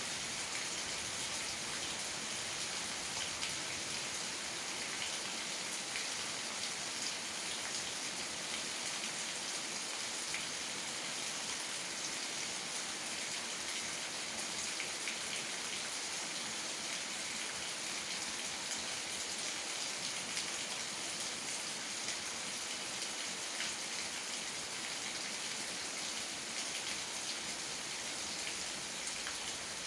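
Steady rain: an even hiss made of many small drop taps, unchanging throughout.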